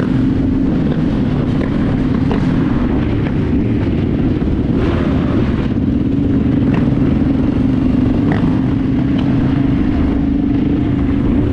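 Dirt bike engine running at a steady, nearly constant pitch while riding along with a passenger aboard.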